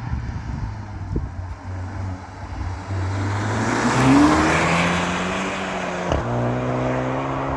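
Škoda Octavia RS engine running through a Milltek Road+ cat-back exhaust, a steady low note that gets louder and rises in pitch about four seconds in, then holds a steady higher note.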